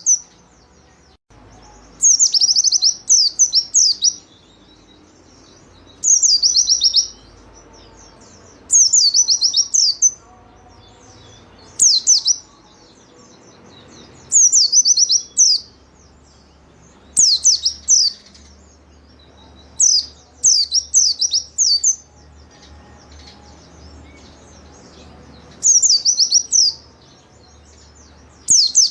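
White-eye (pleci) singing: short, high twittering phrases of rapid falling notes, repeated about every two to three seconds.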